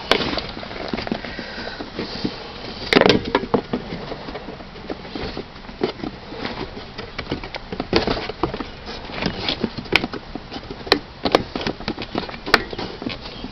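Hard plastic interior trim being handled and fitted back into place: scattered clicks, knocks and rustling, with a loud cluster of clicks about three seconds in and a few sharp single clicks near the end.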